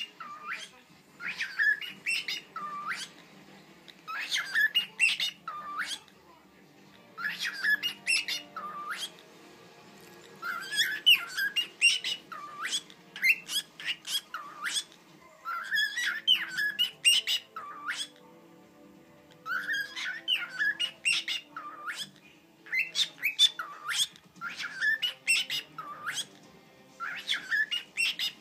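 Cockatiel chirping and whistling in repeated bouts of quick, gliding notes, each bout lasting a second or two with short pauses between.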